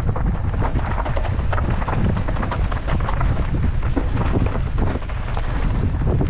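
Wind buffeting the microphone of a mountain bike descending at speed, with rapid, irregular clattering and knocking as the bike runs over a rough, rocky trail.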